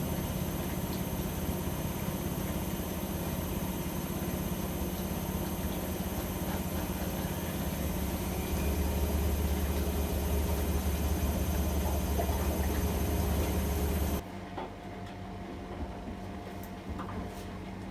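AEG Öko-Lavamat washing machine's motor turning the drum with a steady hum and whine. It gets louder a little past halfway, then stops abruptly near the end, leaving a quieter background with a few faint clicks.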